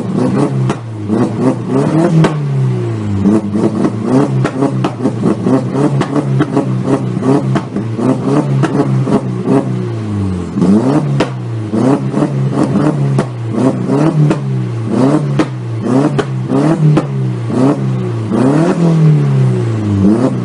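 Audi TT 8N's 1.8-litre turbocharged four-cylinder engine, fitted with an aftermarket downpipe and tuned software, revved up and down over and over in quick blips. Sharp cracks sound between the revs.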